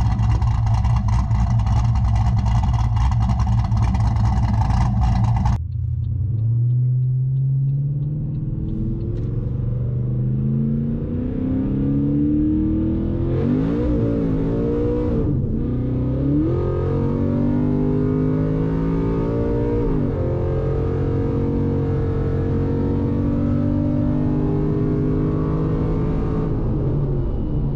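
Cammed Pontiac G8's V8 idling with loud, steady exhaust noise. About five seconds in it switches to the engine heard from inside the cabin, pulling up through the gears with its pitch rising and dropping back at each shift, then settling to a steady cruise.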